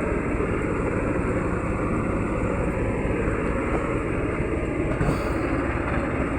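Pickup truck on the move: a steady low rumble of engine, tyres and wind.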